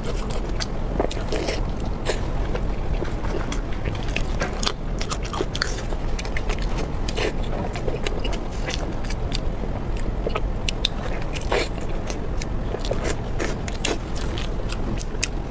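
Close-miked eating: a person biting and chewing food, with many short, irregular wet clicks and smacks over a steady low hum.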